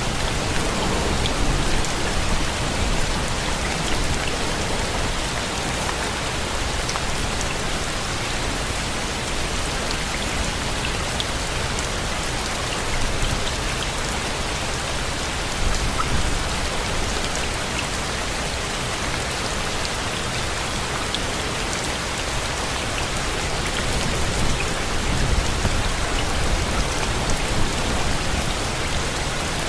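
Steady rain falling, an even hiss with scattered distinct drop ticks. A low rumble swells up a few times.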